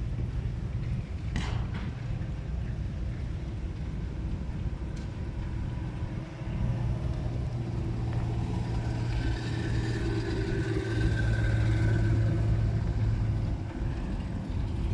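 An engine running steadily with a low hum. It grows louder about six seconds in, louder again around ten seconds, and eases off near the end.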